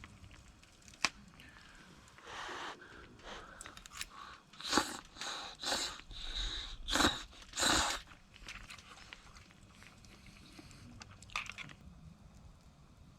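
Someone biting into and chewing crunchy food, a run of irregular crunches between about two and eight seconds in, after a single sharp click about a second in.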